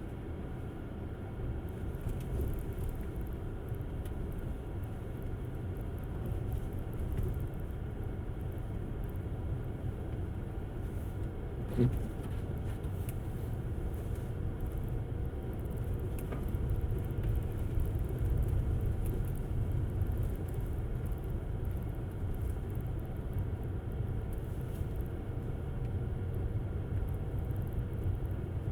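Electric Tesla Model S driving through a snow storm: a steady low rumble of tyre and road noise, with one sharp knock about twelve seconds in.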